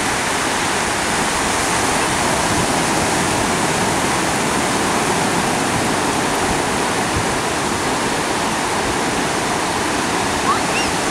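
Sea surf washing in a steady, unbroken rush of water noise. A few short high chirps come in near the end.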